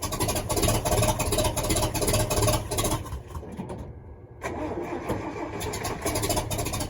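Truck engine fed by a homemade wood-gas setup being cranked with the starter in a rhythmic chug that is not catching. The cranking sags and stops about three seconds in, then starts again a moment later.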